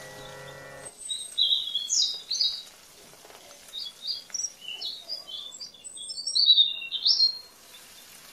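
Small birds chirping: a quick string of short, high chirps and trills, loudest about a second in and again near the end.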